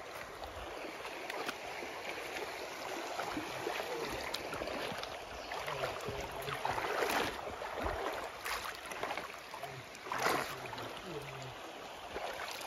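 River water rushing steadily, with a few sharper rustling knocks about halfway through.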